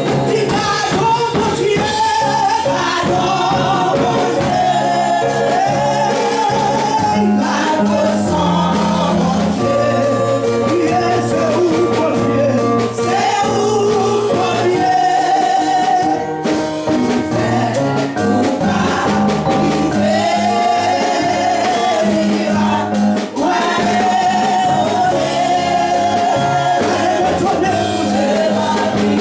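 Gospel music: a choir or congregation singing over a band with bass and a steady beat.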